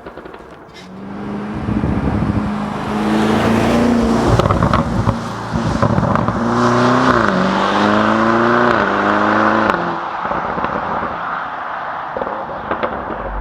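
Lamborghini Urus Performante's twin-turbo V8 under acceleration: the engine note climbs and drops back several times, like upshifts, with a few sharp exhaust crackles.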